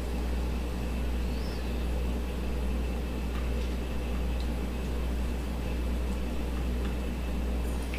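Steady low hum over a faint even hiss, with a few faint small ticks.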